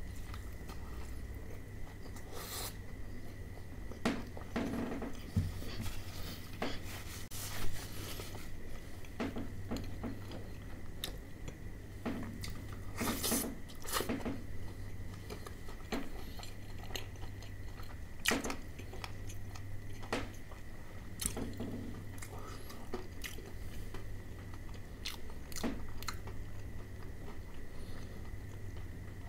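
Close-up chewing and biting of KFC Hot & Crispy fried chicken, with irregular crunches of the fried coating, one sharper crunch about seven seconds in, over a faint steady hum.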